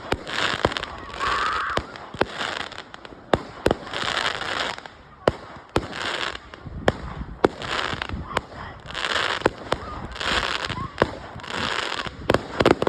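A fireworks display firing a rapid sequence: sharp bangs of bursting shells, with short bursts of hiss under a second long coming about once a second between them.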